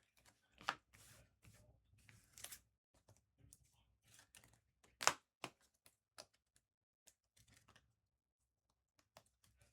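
Trading cards and their packaging being handled: faint scattered clicks, slides and rustles, with one sharper snap about five seconds in.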